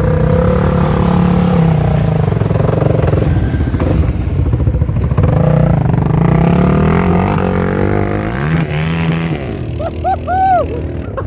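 A Polaris Outlaw 525 quad's single-cylinder KTM engine revving up and down hard, its pitch rising and falling again and again as it is ridden through mud.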